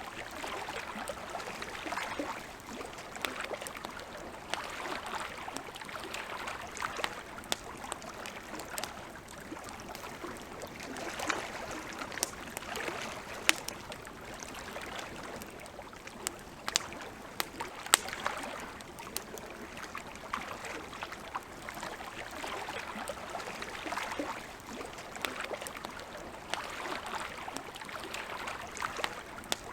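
Wood campfire crackling, with scattered sharp pops, the loudest a little past the middle. Under it, small lake waves lap against the shore in a slow, swelling-and-ebbing wash.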